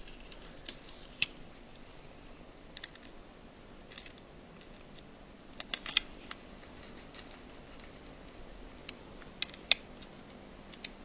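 Scattered small, sharp clicks and taps of a precision screwdriver and the small metal parts of an iPhone 5 being handled during reassembly, over faint room tone.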